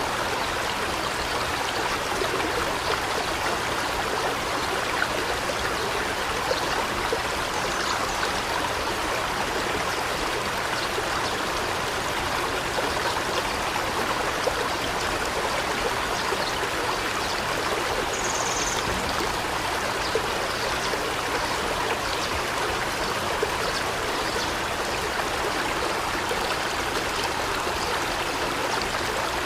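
Steady rushing water, an even, unbroken wash of noise, with one brief high chirp a little past the middle.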